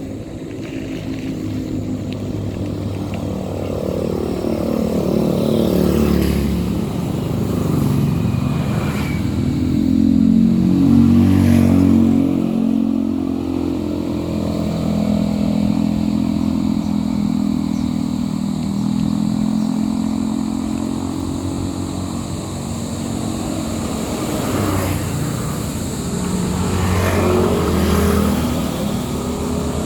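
Motorcycle engine running on the move, its pitch rising and falling as the speed changes, with a louder stretch about ten seconds in.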